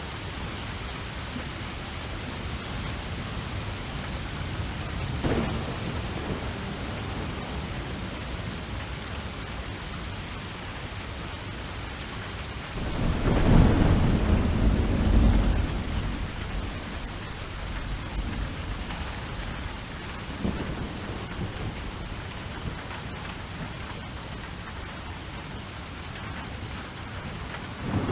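Steady rain with rolls of thunder: a loud low rumble about halfway through lasting a few seconds, with fainter rumbles earlier and later.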